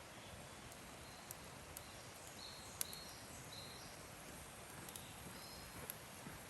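Faint outdoor ambience with a bird giving short, high chirps in quick little runs, plus a few sharp clicks.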